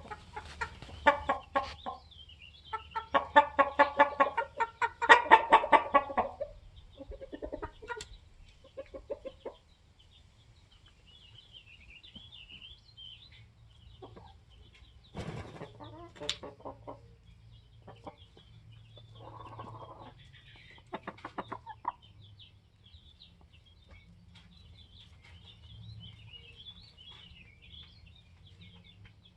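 Polish chickens clucking in rapid runs of calls, loudest during the first several seconds, then in shorter, softer bouts. Through the second half a thin, high twittering runs on over a low steady hum.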